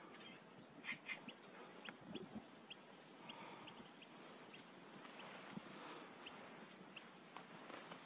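Faint high-pitched bird chirps against quiet outdoor background noise. There are a few stronger chirps in the first second, then short thin notes about twice a second.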